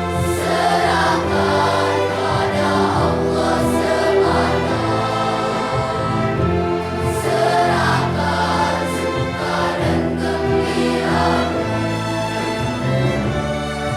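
Children's choir singing in parts, accompanied by a string orchestra with flute and piano, the voices carried over sustained low string notes.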